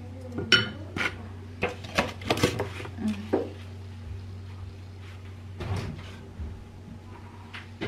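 Table clatter of dishes and cutlery being handled: a quick run of clicks and knocks in the first few seconds, then a few sparser ones, over a steady low hum.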